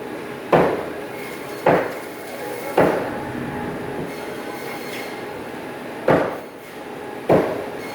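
A cleaver chopping fish on a cutting block: five sharp chops, three about a second apart, a pause of about three seconds, then two more, over a steady background hum.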